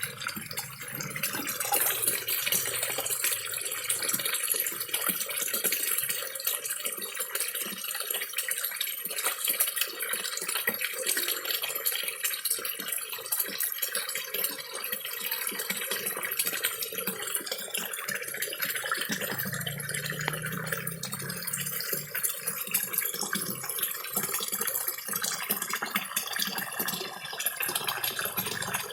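Mini waterfall trickling and splashing steadily into a koi pond, with many small slurping, smacking sounds from koi feeding together at the surface.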